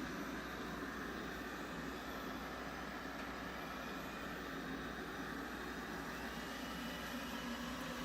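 360 S9 robot vacuum running, with a steady whir from its suction fan and brushes. The owner reports it drags dust around without picking any up and suspects the brush is not turning or the suction is failing.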